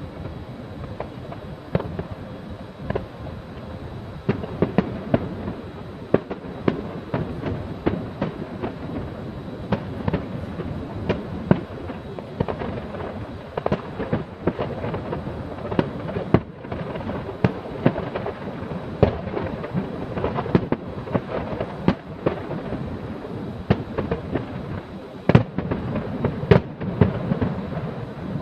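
Fireworks exploding, a steady run of sharp bangs and crackles, some in quick clusters, over a continuous rumbling of distant bursts; the bangs come thicker toward the end.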